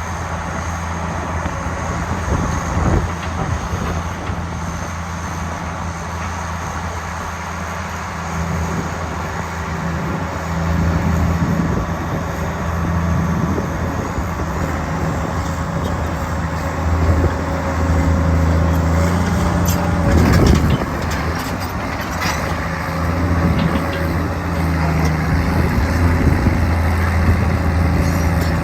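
Diesel engine of a Case 1080B excavator running, its note steady at first and heavier and louder from about ten seconds in, with a few clanks around twenty seconds in.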